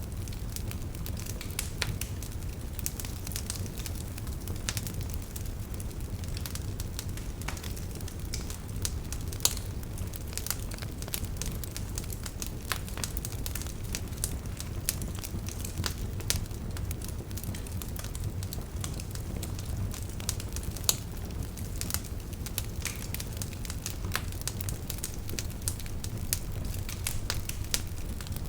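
Campfire burning, with a steady low rumble of flames and constant irregular crackles and occasional sharper pops from the burning wood.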